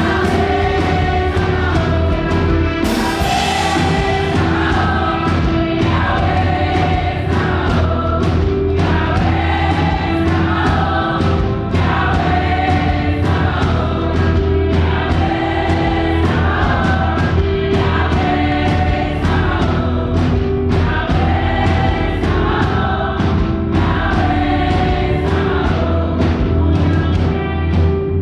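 Live gospel praise music: a group of voices singing together over a band with a steady bass and a fast, regular beat.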